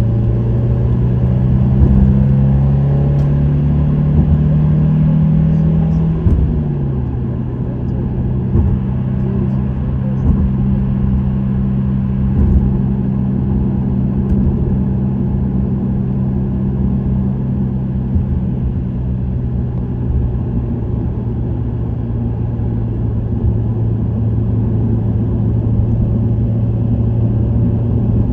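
Subaru WRX STI (VAB) with an STI Performance muffler, its 2.0-litre turbocharged flat-four engine and exhaust running on the move. The engine note climbs slowly for about six seconds, drops off suddenly, then holds a steady drone at cruising speed.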